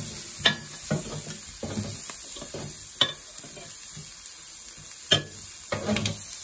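Bacon, onions and garlic sizzling in a hot Saladmaster stainless steel skillet while metal tongs and a spoon stir and press them. There are a few sharp clinks of metal on the pan.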